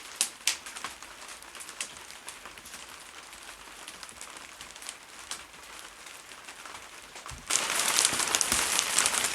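Hailstones and rain pattering down, with many scattered sharp ticks of individual stones. About seven and a half seconds in it suddenly becomes much louder and denser.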